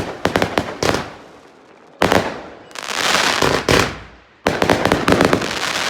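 Fireworks going off: three volleys of rapid, crackling bangs, with a hissing rush in the middle volley.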